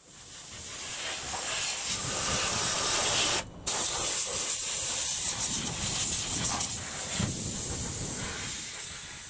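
Water spraying hard from a wash gun, a steady hiss that cuts off briefly about three and a half seconds in and tails off near the end.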